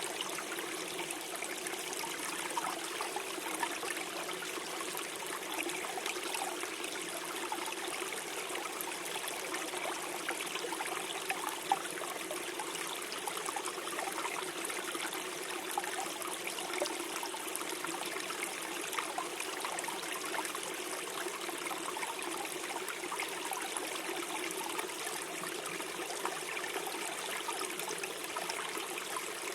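Small shallow stream flowing and gurgling over stones, an even, continuous babble of water.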